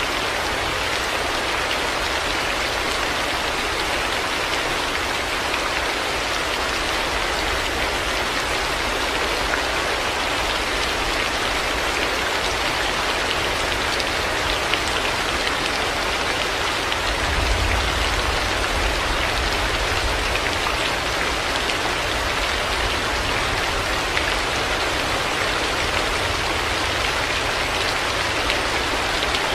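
Heavy rain falling steadily in a dense, even hiss. A low rumble swells briefly a little over halfway through.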